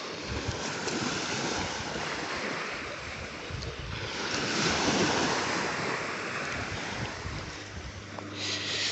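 Small waves washing on a beach, with wind buffeting the microphone; the wash swells up about halfway through.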